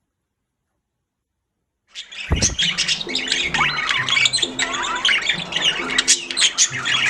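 Silence, then about two seconds in a dense chorus of many birds chirping, whistling and squawking starts, over background music with low held notes that change in steps.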